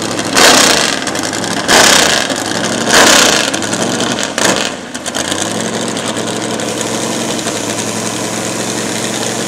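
Drag car's engine running at a loud idle, with four short, loud blasts about every second and a half in the first five seconds, then a steady idle.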